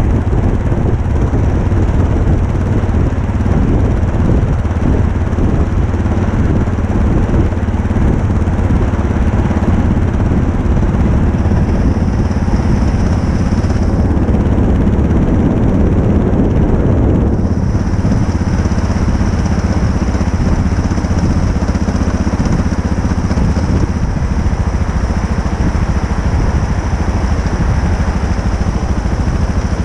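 Motorcycle engine running steadily and loudly, low-pitched, with a faint high whine coming in about halfway through.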